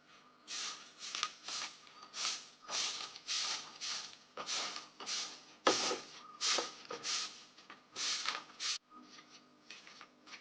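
Rhythmic swishing strokes, about two a second, stopping near the end, as in sweeping or scrubbing during household chores.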